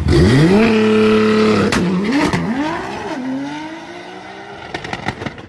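Nissan GT-R's twin-turbo V6 launching hard down a drag strip: the revs sweep up sharply, hold, then drop and climb again through about three quick upshifts, the sound fading as the car pulls away.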